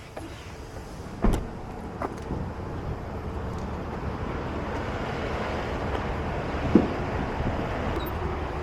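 Road vehicle running, its steady noise slowly building, with a sharp knock just over a second in and another about seven seconds in.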